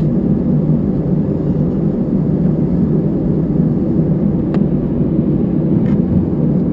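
Airbus A319 cabin noise while taxiing: a steady rumble of the idling jet engines and rolling airframe, with two faint clicks in the second half.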